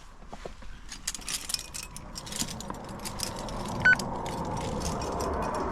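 Metal climbing hardware (carabiners and gear on a harness) clinking and jangling in quick, irregular clicks, with one brief high squeak about four seconds in.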